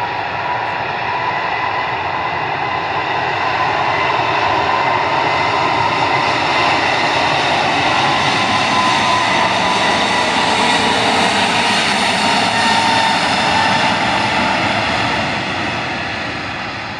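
Korean Air Boeing 777-200's twin jet engines at takeoff power: a loud roar with a steady high whine. It grows louder through the middle and fades over the last few seconds as the airliner passes.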